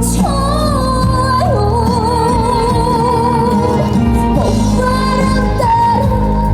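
A woman singing live over backing music, holding a long note with a wide vibrato in the middle of the phrase.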